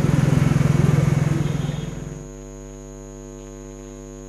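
Loud, steady vehicle-like rumble that fades out about halfway, giving way to a steady electrical mains hum.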